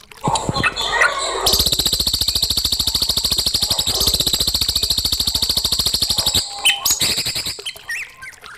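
Songbird singing: a few short chirps, then a very fast, even trill held for about five seconds, then more short chirps.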